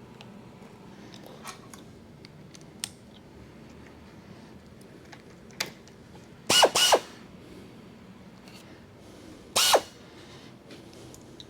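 A chamfer tool in a milling machine spindle cutting the edges of small holes in a steel plate, over the steady low hum of the running mill. Two quick shrill chattering bursts come about six and a half seconds in and a third near ten seconds, each a brief plunge. The chatter is the sign of a little too much feed force on the tool.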